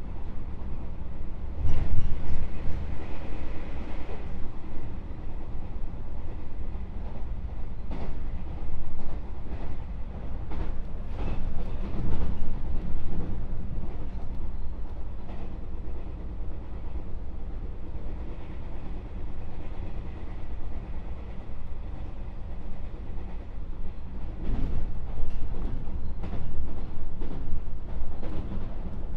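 Running noise heard from inside a JR West 221-series electric train's motor car (KuMoHa 221): a steady low rumble of wheels on rail, broken by scattered sharp clacks from the wheels over rail joints.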